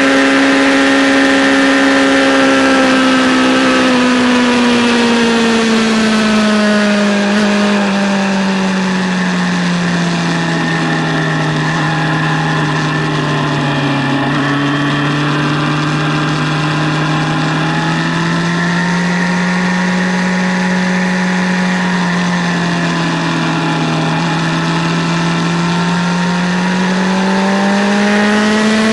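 2008 Yamaha FZ6's inline-four engine heard onboard at track speed. The revs fall over the first half, stepping down about four seconds in, hold lower through the middle with small rises and dips, and climb again near the end, over steady wind noise.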